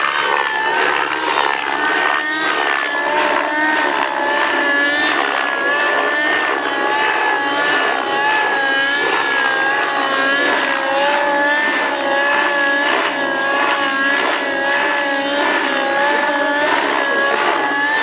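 Radio-controlled model helicopter in flight: its motor and rotor run at high speed with a steady whine that wavers slightly in pitch as the model manoeuvres.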